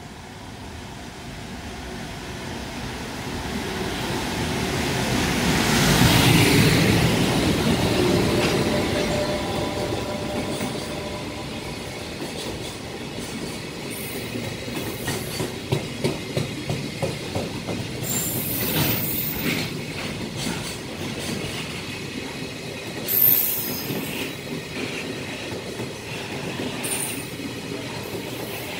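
An EF510 electric locomotive hauling a container freight train past at speed. The locomotive comes up and passes, loudest about six seconds in, then the container wagons rush by with a run of rhythmic wheel clacks over rail joints and a few brief high wheel squeals, the sharpest near the end.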